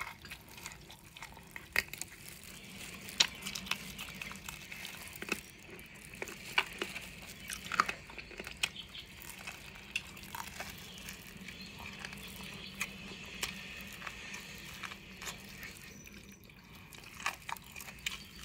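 Someone eating a fried chicken drumstick up close: scattered crunches and wet mouth clicks and smacks as it is bitten and chewed, over a faint steady hum.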